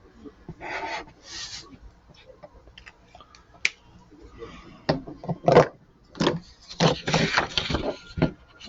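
Marker tip scratching and rubbing across paper in short strokes, with a few light clicks. The strokes come quick and close together in the second half.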